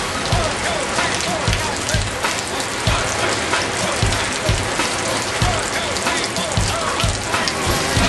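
Steady rain falling, pattering on surfaces, with a regular low thump about twice a second.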